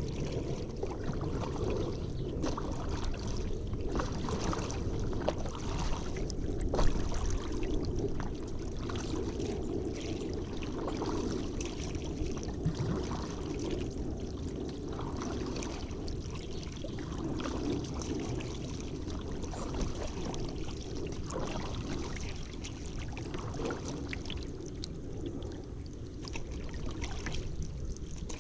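Paddle strokes dipping and splashing in the river water, repeating steadily, over a continuous low rush of water and movement along the boat.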